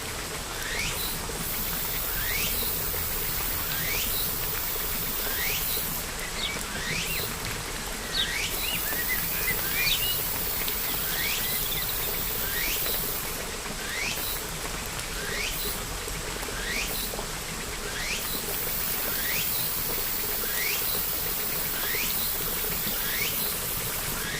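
A bird repeats a short rising chirp about once a second over a steady hiss of rain, with a brief flurry of mixed chirps about a third of the way in.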